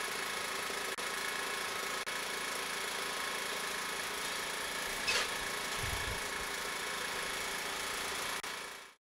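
An engine or machine running steadily with an even hum, fading out near the end.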